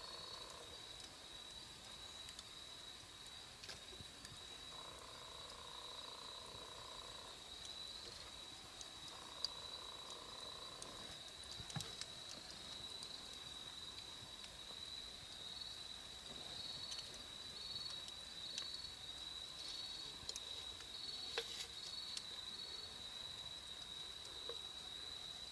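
Wood campfire crackling with a few sharp pops, over a steady high insect trill of crickets that pulses at times. A lower call comes and goes during the first half.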